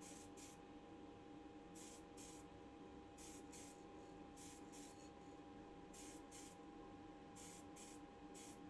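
Near silence, with faint short spray hisses, mostly in pairs, every one to two seconds, like quick bursts of paint or primer spray, over a low steady hum.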